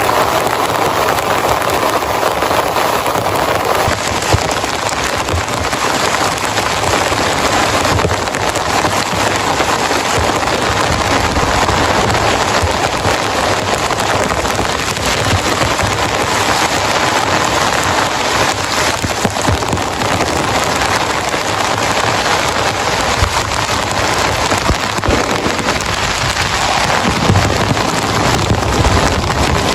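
Heavy rain drumming steadily on a tent or tarp, with a dense patter of drops striking close to the microphone. Some low rumbling comes in near the end.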